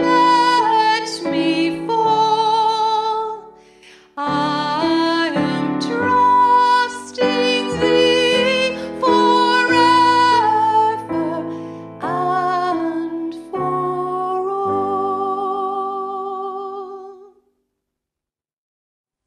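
A woman singing with keyboard accompaniment. The voice wavers on long held notes. The last chord is held and fades, and the music stops short of the end.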